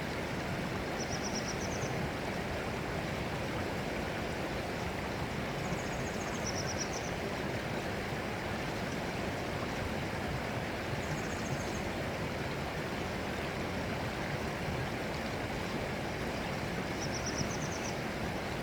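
Flowing water of a stream, rushing steadily. Short trills of quick high chirps come through four times.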